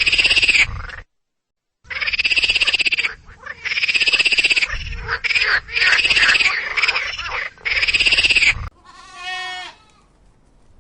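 Loud rasping animal calls in repeated bursts about a second long, each made of rapid pulses, with a brief cut to silence about a second in. Near the end a fainter bleat follows, falling in pitch.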